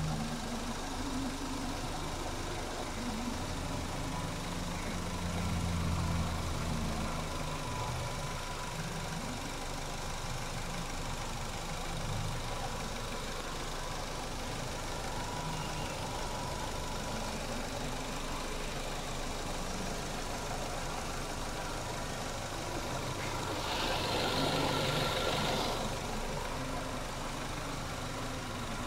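Proton Waja MMC's Mitsubishi-built four-cylinder petrol engine idling steadily, freshly rebuilt with a top overhaul and new piston rings after overheating. It gets briefly louder about three-quarters of the way through.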